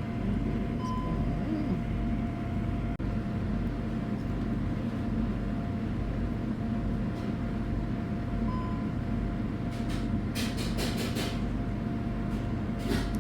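A steady low rumble, typical of a vehicle running, with a faint constant tone; a quick run of clicks comes about ten seconds in.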